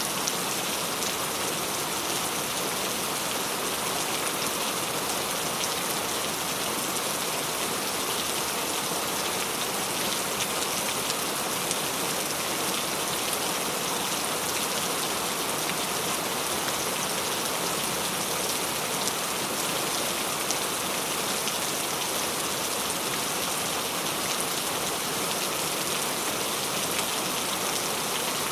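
Steady rain falling, a dense even hiss of many small drops hitting a surface.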